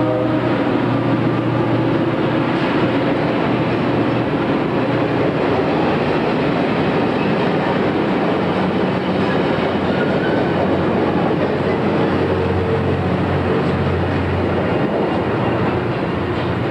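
Long Island Rail Road passenger train running past a station platform: a steady, loud rumble and rattle of wheels and cars that eases slightly near the end as the last car clears.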